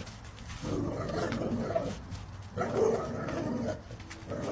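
A dog vocalising in three drawn-out calls, each about a second long, with short pauses between them.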